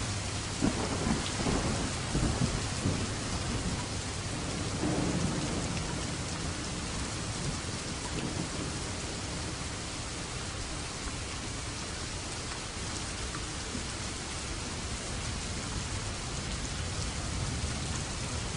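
Steady heavy rain with rolling thunder: a rumble with several sharp cracks in the first few seconds that fades out by about six seconds in, leaving the even hiss of rain.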